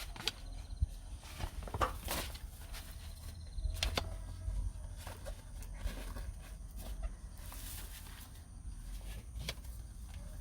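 Wind buffeting the microphone as a steady low rumble, with scattered irregular clicks and knocks of things being handled.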